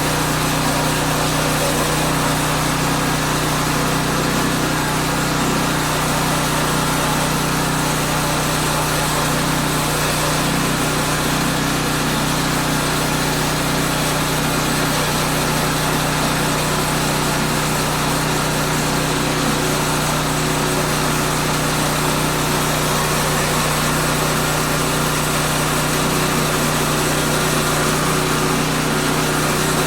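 Small gas engine of a portable bandsaw sawmill running steadily at a constant speed.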